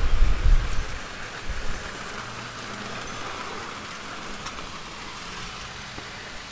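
Wind gusts buffeting the microphone with low rumbling thumps in the first second and again briefly about a second and a half in, then a steady even hiss.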